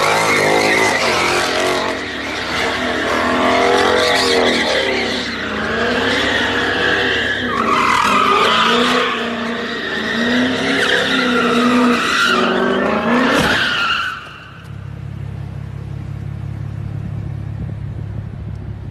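A car's engine revving up and down hard while its tyres squeal in a skid. About fourteen seconds in this gives way to a quieter, steady low engine drone.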